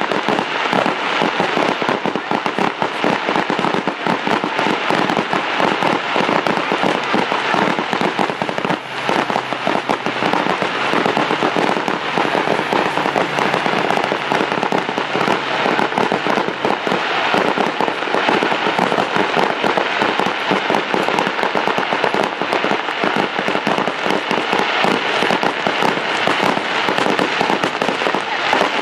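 Fireworks and firecrackers crackling and popping nonstop, many small bangs a second in a dense, steady rattle.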